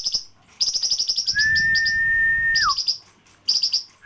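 A caged flamboyan songbird singing in bursts of rapid, high chattering trills, about ten notes a second. One long level whistle runs through the middle and drops sharply in pitch at its end.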